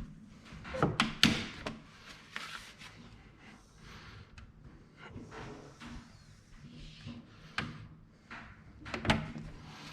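Squeegee rubbing in strokes over tint film on window glass, with scattered sharp knocks and clicks of hard tools or scaffolding, a cluster about a second in and more near the end.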